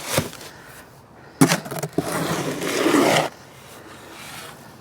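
Concrete being mixed by hand: a tool knocks twice, then scrapes through the wet, heavy mix for about two seconds.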